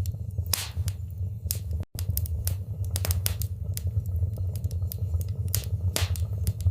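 Fire burning in a fireplace: a steady low rumble with frequent sharp, irregular crackles and pops. The sound drops out for an instant about two seconds in.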